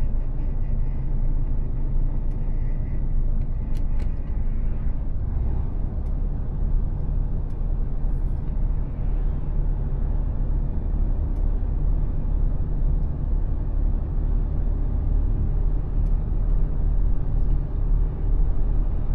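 Mercedes-Benz Actros truck's diesel engine running steadily under way, with a low road and tyre rumble.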